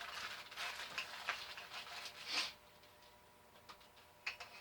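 Packaging rustling as the angle grinder's box contents are handled, for about two and a half seconds, then a few light clicks near the end as the parts are set down.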